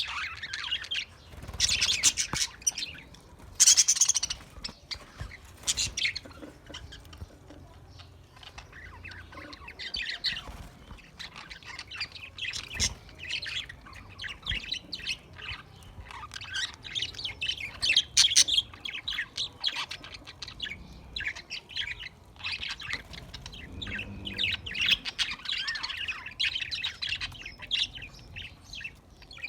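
A flock of budgerigars chattering and warbling continuously, with frequent sharp chirps and squawks, loudest in bursts every few seconds.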